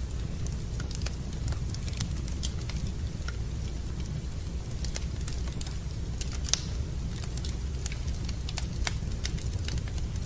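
Wood fire burning in a fireplace, crackling with irregular small pops over a steady low rumble; one sharper pop about six and a half seconds in.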